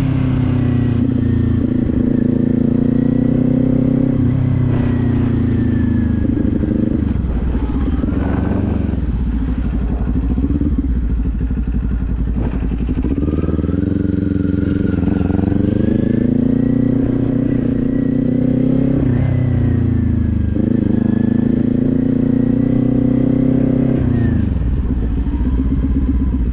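Motorcycle engine under way, its revs climbing and then dropping sharply several times as the rider shifts gears and eases the throttle.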